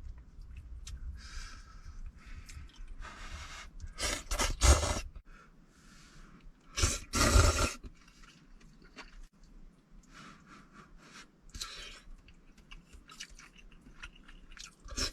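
Close-up chewing of a mouthful of noodles, soft and irregular, with two louder bursts of mouth noise about four and seven seconds in.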